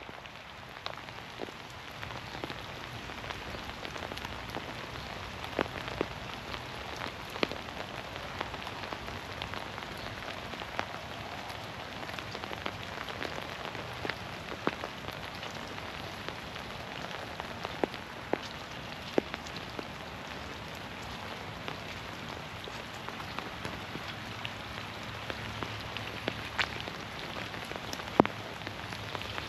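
Steady rain falling, with many scattered louder single drops striking close by.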